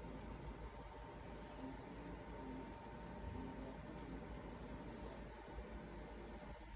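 Sugar glider clicking: a fast, even series of soft high clicks, about eight a second, starting a second and a half in. It is the glider's call when looking for its companions.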